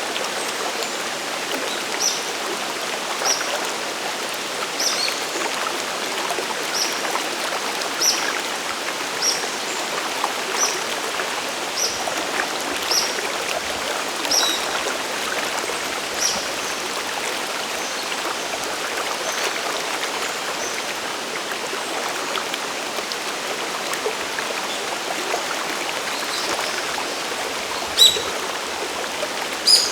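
Waterfall and mountain stream water rushing steadily. A bird's short, high call repeats about once a second through the first half. Two sharp clicks stand out near the end.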